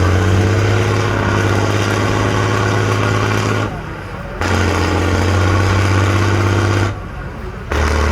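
The engine of an 8x8 trial truck is revving hard under load in long bursts. Each burst climbs in pitch and then holds, and the revs drop briefly twice as the throttle is lifted.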